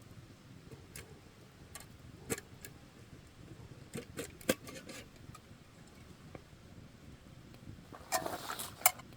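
Wood campfire crackling: scattered sharp pops and snaps over a low, steady fire noise, with a brief hissing flurry of crackles and one loud pop near the end.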